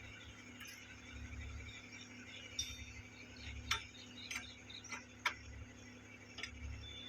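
Light metallic clinks and ticks of hand tools and steel fittings being handled, about five scattered sharp clicks over faint steady background noise.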